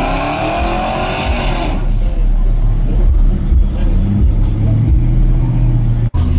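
A car engine revving: its pitch climbs and falls back over the first couple of seconds, then it settles into a deep, steady rumble. The sound cuts out for an instant near the end.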